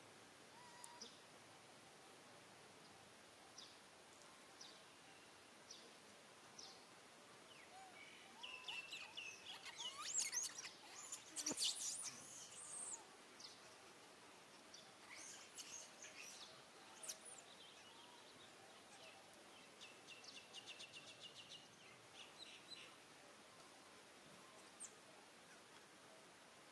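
Faint, scattered high-pitched bird chirps, with a busier spell of chirping and calls in the middle and a quick trill a little later.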